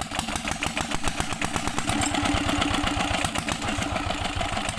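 Old 16-horsepower Petter diesel engine running steadily with an even, rapid firing beat while driving a tubewell pump.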